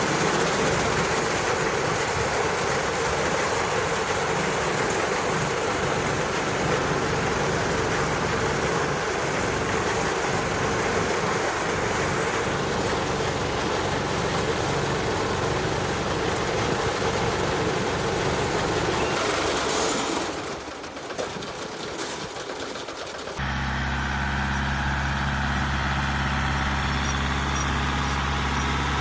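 Tractor and hay baler machinery running steadily. The sound drops away about 20 seconds in and comes back about three seconds later as a steadier engine hum.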